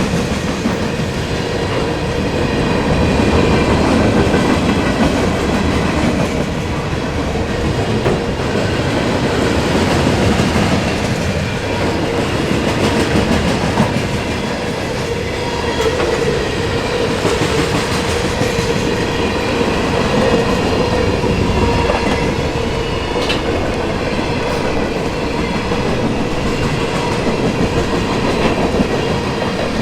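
Cars of an intermodal container train rolling past, a continuous rumble with wheels clacking over the rail joints and a steady whine from the wheels on the rail.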